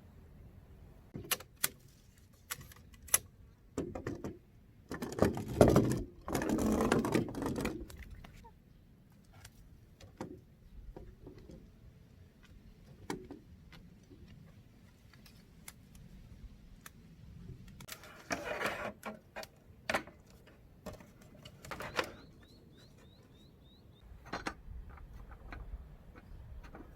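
Camping gear being handled: scattered clicks, light knocks and clatter, with a longer rustling scrape about five to eight seconds in and a shorter one at about eighteen seconds. A short, faint run of high bird chirps comes near the end.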